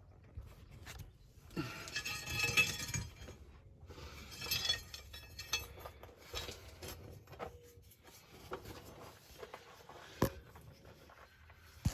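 Metal tools and hardware clinking and clattering, in two busy bursts early on and then scattered clicks, with one sharper knock near the end, as the old shock absorber is worked loose.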